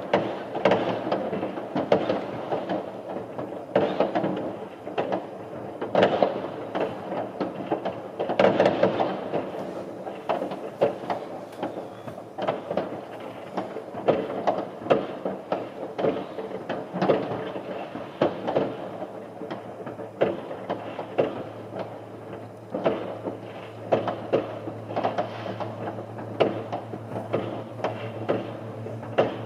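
Many distant fireworks going off at once: a constant crackle and rumble of bangs, with louder single bangs every second or so.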